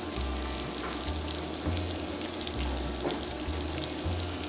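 Spice-coated boiled yam slices sizzling steadily in oil in a cast-iron skillet, a fine continuous crackle as they start to brown. Background music with a low bass line plays underneath.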